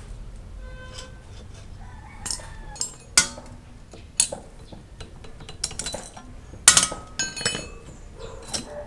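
Metal tools and parts clinking and knocking together while being handled on a motorcycle restoration, with about a dozen irregular sharp knocks and clanks. A few of them ring briefly, one near the start and a cluster about three quarters of the way through.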